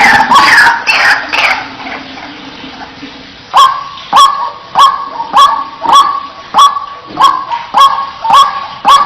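White-breasted waterhen calling. A dense run of overlapping, falling calls fades out about a second and a half in. After a pause, from about three and a half seconds in, comes a loud, regular series of sharp "wak" notes, nearly two a second.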